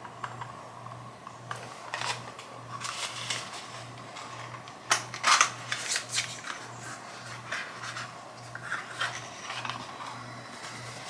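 Rustling and clicking of a skincare product's packaging being handled and opened, busiest about five seconds in.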